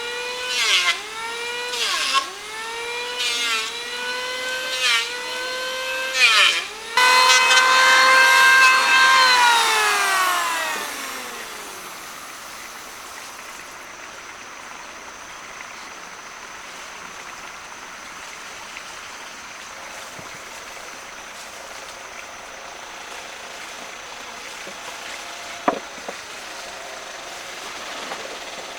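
Electric power tool working wood: its motor whine dips in pitch again and again as it bites in, then runs free and winds down to a stop about ten seconds in. A single sharp click near the end.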